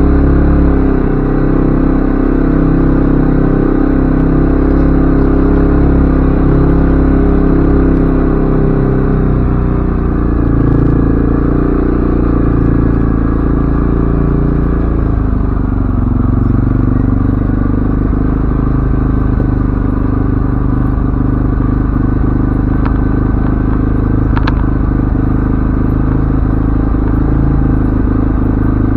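CFMoto ATV engine running steadily under way, its pitch easing down about halfway through.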